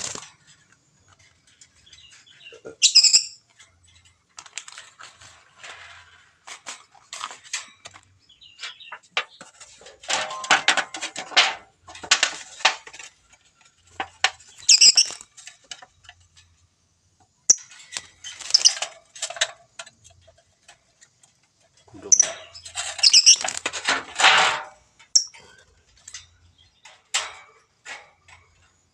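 Lovebird calling in short, shrill chirps mixed with dense clicking chatter and rustling, coming in flurries with two busier stretches, one just over a third of the way in and one near the end.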